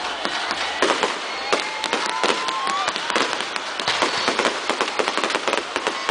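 Fireworks going off: a dense, unbroken run of sharp cracks and pops, with a few short wavering tones over them.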